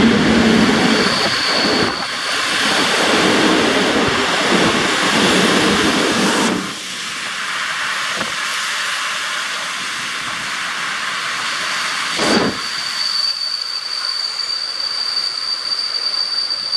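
Passenger train coaches rolling past along a platform, with steady wheel-and-rail noise. About six and a half seconds in, the sound cuts to a quieter hiss with a thin steady high whine and a couple of single knocks.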